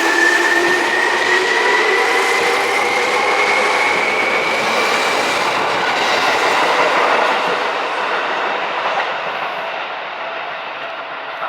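Seibu 2000 series field-chopper-controlled electric train accelerating, its traction motor and gear whine slowly rising in pitch over rumbling wheel and rail noise. The sound fades gradually from about seven seconds in as the train pulls away.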